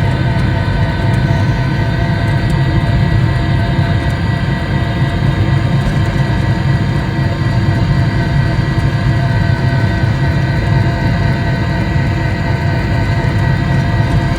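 Mini Cybertruck ride-on toy driving steadily: a constant motor whine over a loud rumble of its wheels on pavement.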